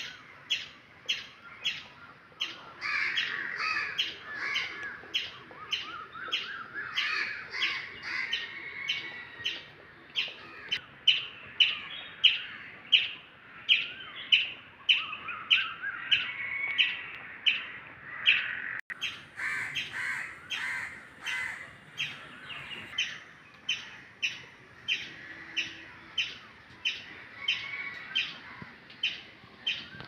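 Birds singing in the trees: one bird repeats a short, sharp call at an even pace, about one and a half times a second, over the warbling song of other birds.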